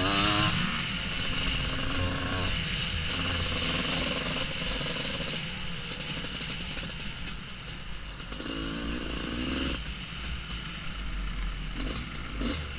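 Husqvarna WR250 two-stroke enduro bike engine running off-road, with a short rev that rises and falls about two-thirds of the way through.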